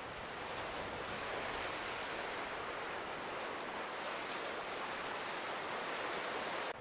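Steady rushing wash of sea surf breaking on the shore, swelling slightly, which cuts off abruptly near the end.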